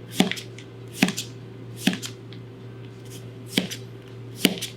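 Kitchen knife slicing an onion into thin strips on a cutting board: five evenly paced strokes, each a sharp knock of the blade on the board, with a short pause about halfway through. A steady low hum runs underneath.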